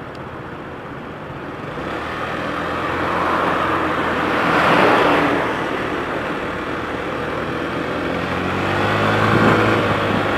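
Yamaha BW'S 125X scooter's single-cylinder four-stroke engine running under way on its stock muffler, mixed with wind and road noise. A broad swell of road noise builds about halfway through, and the engine note rises as the scooter accelerates near the end.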